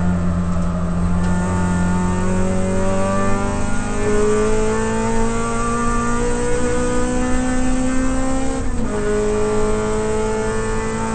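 Toyota Corolla AE92 race car's four-cylinder engine accelerating hard, heard from inside the cabin. Its pitch climbs steadily for about eight seconds, drops with an upshift about nine seconds in, and then climbs again.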